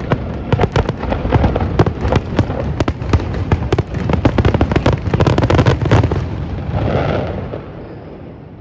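Fireworks display: a fast, dense string of bangs and crackles that stops about six seconds in, followed by a softer rumbling burst that fades away.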